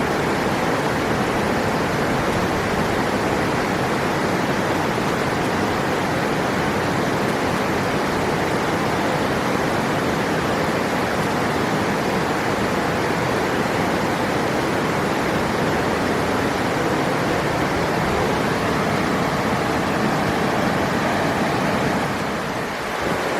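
River water rushing steadily over rocks, a dense, even rush. It briefly dips near the end.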